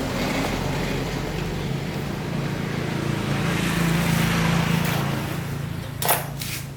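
Small motorbike engine running steadily. It grows louder about four seconds in and then fades off, with a sharp knock near the end.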